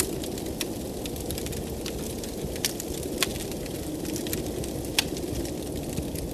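Wood fire crackling in a fireplace, with sharp pops every second or so, over a steady low rush of blizzard wind.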